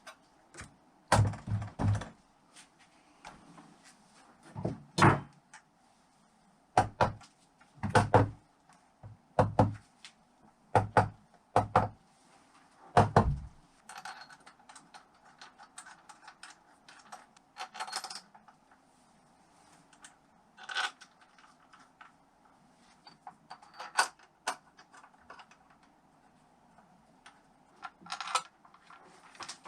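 Metal engine parts and tools being handled and fitted during reassembly of a Honda XL600 engine: about a dozen heavy knocks over the first half, some in quick pairs, then lighter clicks and clinks.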